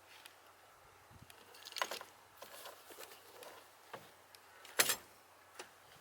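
Scattered knocks and clatters of things being handled, with the loudest sharp clatters about two seconds in and again near five seconds.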